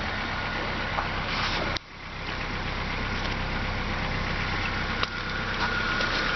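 A 1997 Honda Accord's four-cylinder engine idling steadily. The sound drops away sharply for a moment about two seconds in, then builds back up.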